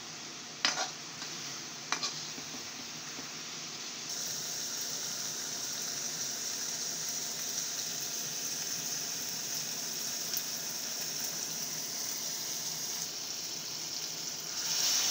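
Diced ingredients sizzling in a hot wok as they are stirred with a ladle, with a couple of sharp knocks of the ladle on the wok in the first two seconds. The sizzling grows a little louder about four seconds in, and near the end it swells briefly as water is poured into the wok.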